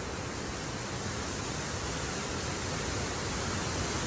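Water rushing over the spillway of Victoria Dam Falls, a steady, even roar of falling water.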